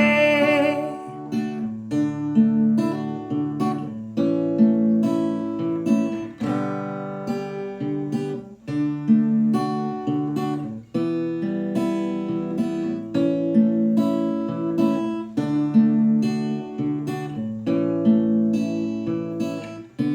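Acoustic guitar playing an instrumental break, chords strummed and plucked, changing every second or two; a last sung note fades out in the first second.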